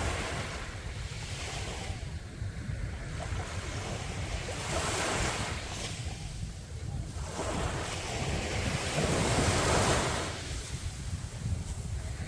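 Sea waves washing onto the beach, surging in three times, every four seconds or so, the last the loudest. Underneath is a steady low rumble of wind on the microphone.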